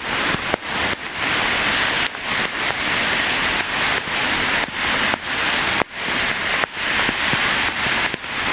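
Heavy rain falling, a loud steady hiss broken by many brief dips in level.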